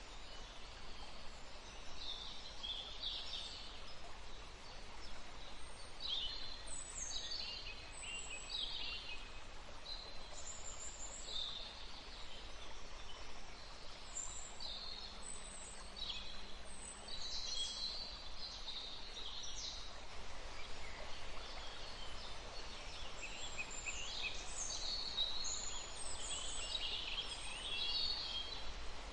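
Woodland stream ambience: the steady rush of running water under frequent quick, high bird chirps and calls.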